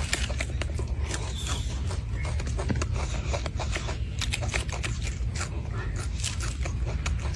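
Monkey eating fruit: a rapid, irregular run of wet clicks and smacks from chewing and handling the fruit, over a steady low rumble.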